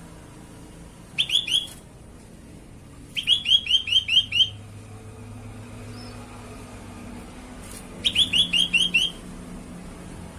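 Cucak kelabu (percang) calling in three quick runs of sharp, repeated chirps, about six a second. The first run is short, about a second in; the others come about three and eight seconds in.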